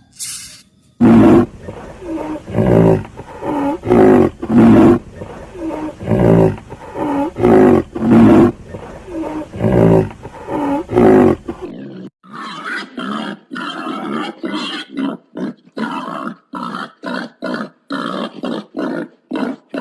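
An animal's loud, deep calls repeated in a series, one well under a second after another. After a cut, a different animal makes many short, quicker, higher calls.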